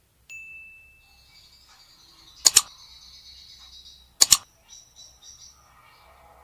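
Rosy-faced and Fischer's lovebirds giving mating calls: two loud, sharp double shrieks, about two and a half and four seconds in, over softer high twittering.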